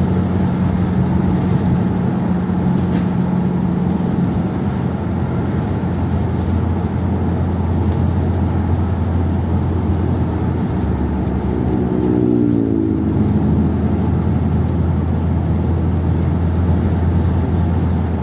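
1957 Ford Thunderbird's V8 running smoothly at a steady cruise on its two-barrel carburettor setup, heard from inside the car with a constant hum of road and tyre noise. A brief wavering tone rises over it about twelve seconds in.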